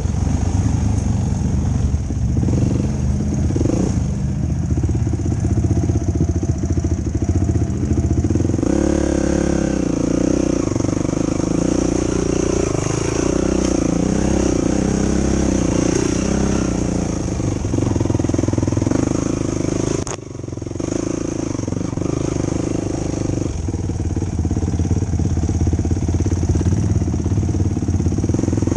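Yamaha YFZ450 sport ATV's single-cylinder four-stroke engine running continuously, its pitch rising and falling with the throttle. The level drops briefly about twenty seconds in.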